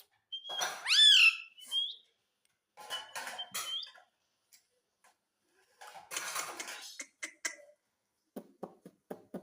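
Pet ring-necked parakeet calling and chattering: one loud rising-and-falling call about a second in, then bouts of harsh, raspy chatter and a run of quick clicking sounds near the end.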